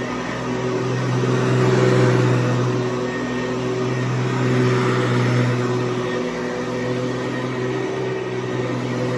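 Hoover U4153 Convertible Elite upright vacuum running, its 4.3 amp motor and 11-blade plastic fan giving a steady hum over a rush of air. The sound swells a little twice.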